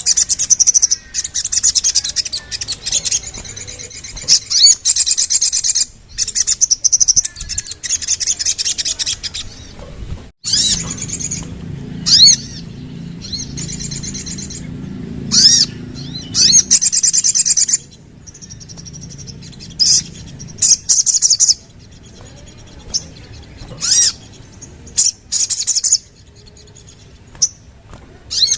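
Little spiderhunter (sogok ontong) singing: repeated bursts of rapid, high-pitched trilled notes, each lasting from under a second to a few seconds, with short pauses between. A low hum sits under the song for several seconds in the middle.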